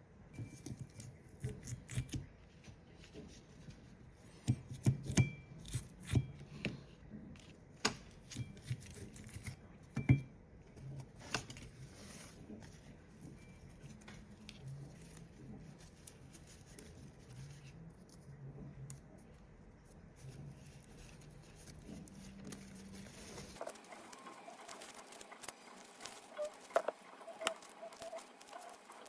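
Irregular clicks, taps and knocks of hand work on a microwave oven transformer's winding and insulation, loudest about five and ten seconds in, over a faint low hum that cuts off near the end.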